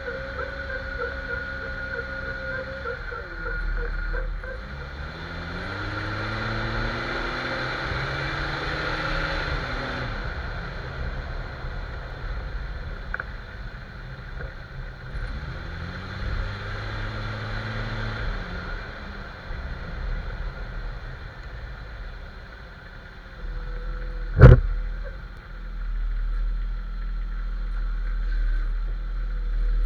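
Jeep Cherokee XJ driving, its engine pitch rising and falling twice as it speeds up and slows down. Late on there is one sharp knock, the loudest sound.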